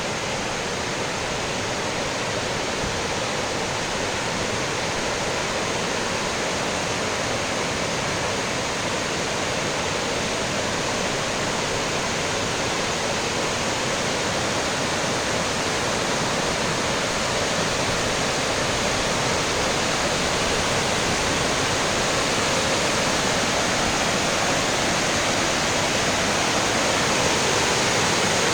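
River water rushing over a waterfall: a steady, dense rush of falling water that grows slightly louder toward the end.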